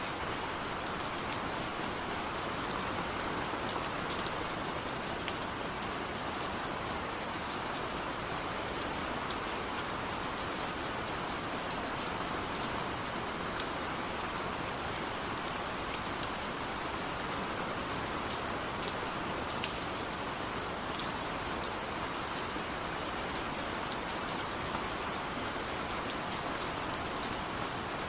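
Steady rain falling: an even, continuous hiss with scattered sharper ticks of individual drops.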